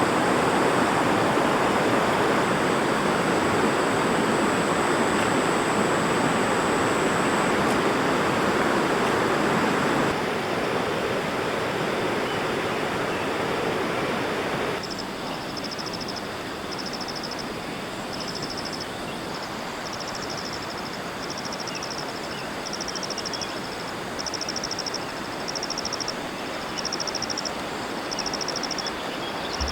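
River water rushing steadily, dropping in level about ten seconds in and again at about fifteen. From about fifteen seconds in, a high chirping repeats roughly once a second over the water.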